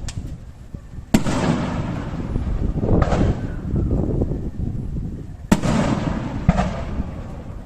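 Fireworks display: aerial shells bursting with sharp bangs, one about a second in, a softer one near the middle and two more a second apart later on, with a low rumble and crackle between.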